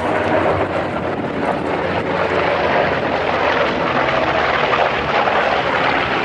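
Piston-engined propeller aircraft flying past, its engine drone steady throughout.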